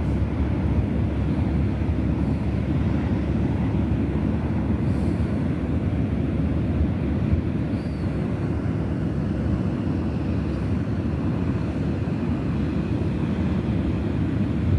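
Wind buffeting the microphone: a steady low rumble with no let-up.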